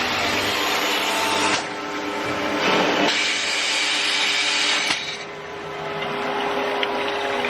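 A 4-head glass drilling machine running, with a steady motor hum under a grinding hiss from its drills. The hiss grows loudest about three seconds in and drops away about five seconds in.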